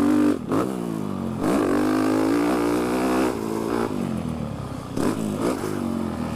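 Dirt bike engine revving up and down under load, heard through a microphone inside the rider's helmet. Its pitch climbs and falls repeatedly, with several sharp drops.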